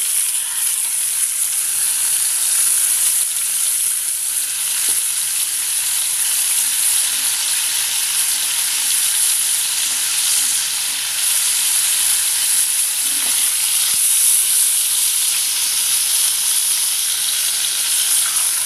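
Marinated chicken pieces sizzling loudly in hot oil in a non-stick frying pan. The sizzle starts abruptly as the meat hits the oil and then holds steady.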